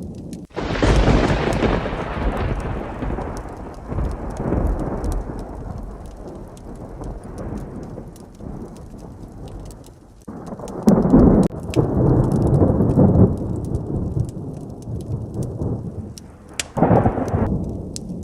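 Thunder over steady heavy rain. A loud peal breaks about half a second in and rolls away over several seconds, a second long rumble comes about ten seconds in, and a short one comes near the end. Small sharp ticks run through it all.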